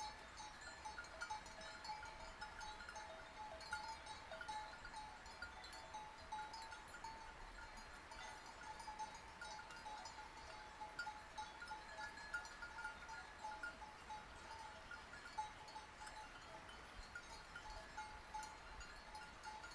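Bells on a grazing flock of sheep clanking irregularly and continuously, ringing at a few steady pitches, with occasional sheep bleats.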